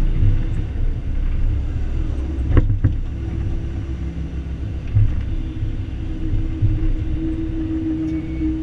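Excavator's diesel engine running with a steady low rumble. A sharp knock sounds about two and a half seconds in, and a steady hum joins the engine about a second later.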